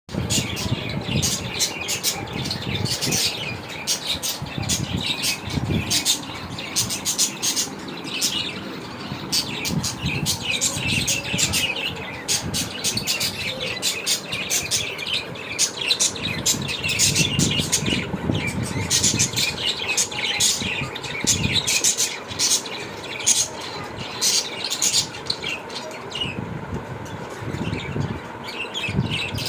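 Pet budgerigars and finches chirping, a dense stream of short overlapping calls.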